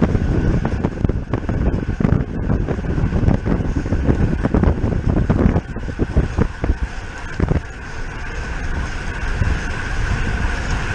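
Wind buffeting the microphone of a camera on a road bike ridden at race speed, a gusty rumble that eases about halfway through, with a faint steady whine underneath.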